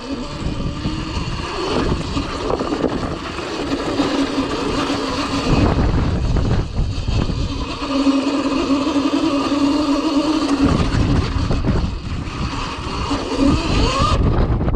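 Cake Kalk OR electric dirt bike's motor whining as it is ridden through snow, the pitch rising and falling with the throttle. A heavy low rumbling noise runs under it for much of the time.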